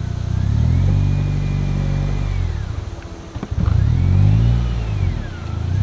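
Car engine revving hard in two long pulls, rising, holding and dropping back, with a high whine that climbs and falls along with the engine, as the car is driven hard.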